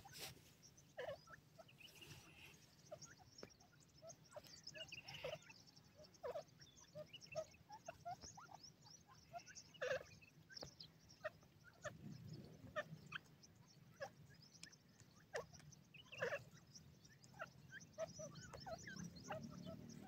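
Faint, scattered short chirps and clucks from birds, with a few soft knocks spread through.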